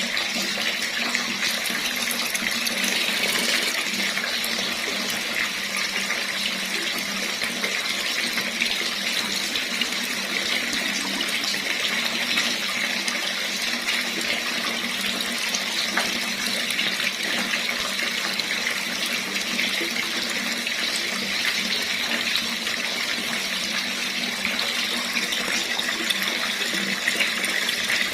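Water running steadily from a tap, an even splashing hiss with no pauses.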